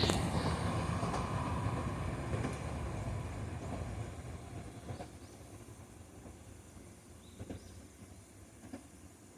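Izuhakone Railway Sunzu Line electric train running away into the distance, its noise dying down steadily, with a few faint clicks in the later part.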